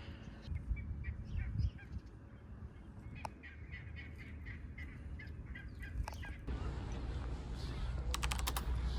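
Birds giving a quick run of short, honk-like calls, several a second, over a low rumble. About six and a half seconds in, the background changes suddenly to a steadier rushing noise.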